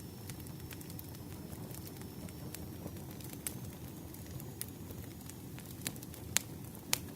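Campfire crackling: a steady low rumble of burning wood with scattered sharp pops and snaps, the two loudest coming near the end.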